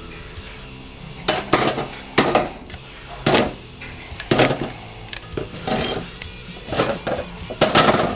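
Metal parts of a Ford 5R110W transmission's forward clutch drum, its clutch plates among them, clanking and clinking as they are handled: about eight sharp metallic knocks at irregular intervals, each ringing briefly.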